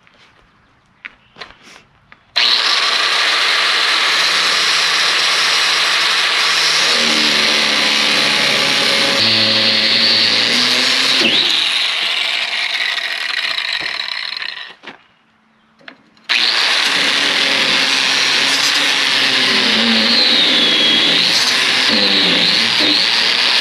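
Grinder grinding welded steel plate in two long runs with a short break between, the motor's pitch wavering as the disc bites. The base metal cuts easily while the weld and the heat-affected zone beside it grind harder.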